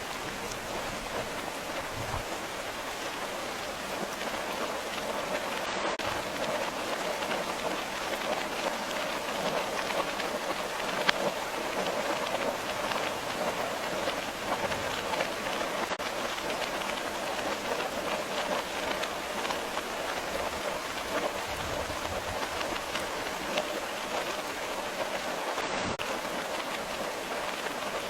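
Steady rain falling: a dense, even hiss flecked with many individual drop ticks, with one sharper tick about eleven seconds in.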